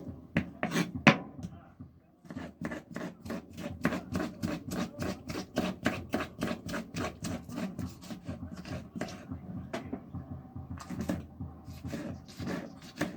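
Knife chopping rapidly on a wooden cutting board, even strokes about five a second, pausing briefly near the end.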